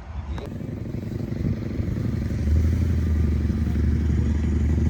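Motorcycle engine running, growing louder over the first couple of seconds and then holding a steady low rumble.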